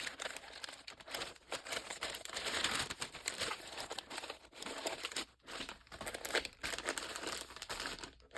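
Packaging crinkling and rustling as it is handled and unwrapped, in uneven spells with short pauses.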